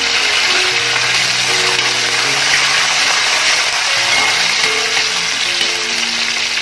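Fresh curry leaves and chopped ginger sizzling in hot sesame oil in a steel kadai: a steady frying hiss.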